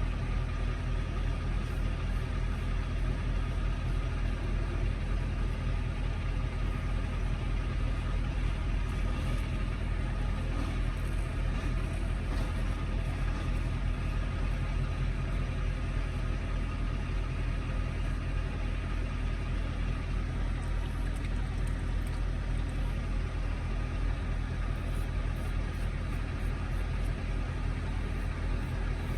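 Truck engine idling steadily: a constant low drone with no change in speed.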